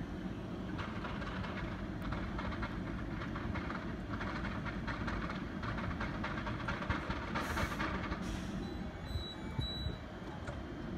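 Red double-deck regional train at the platform: a steady low rumble with many quick clicks, and a short hiss of air about seven and a half seconds in.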